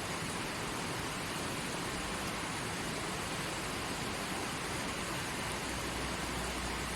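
Creek water flowing steadily, an even rushing hiss with no breaks. A faint low rumble joins underneath near the end.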